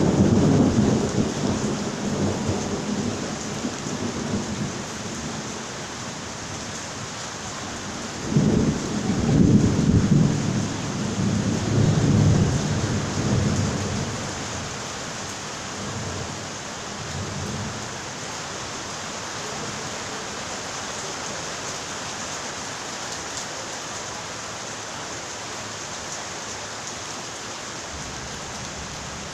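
Steady rain with rolling thunder. A rumble fades over the first few seconds, and another builds about eight seconds in and dies away by about fourteen seconds, leaving only the steady rain.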